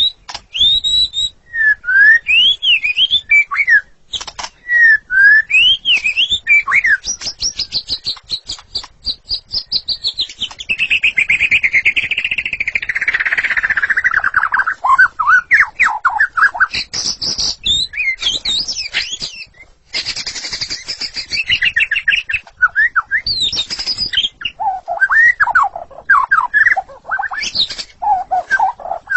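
White-rumped shama singing a long, varied song of whistled phrases and quick repeated notes, with a long, fast chattering trill that slides down in pitch near the middle.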